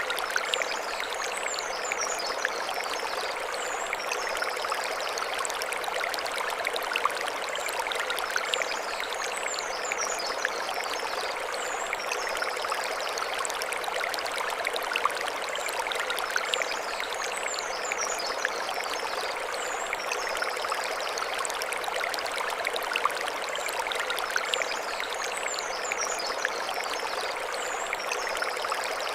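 Mountain stream running steadily over stones with a continuous splashing rush. A high twittering bird phrase recurs about every eight seconds above the water.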